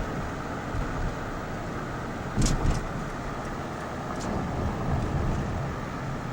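Steady car road and engine noise heard from inside a slowly moving car, with a few short clicks about two and a half seconds in and again near four seconds.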